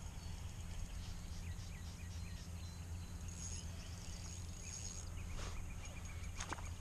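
Outdoor riverside ambience: a steady low rumble with scattered short bird chirps and a thin, high, steady insect-like tone.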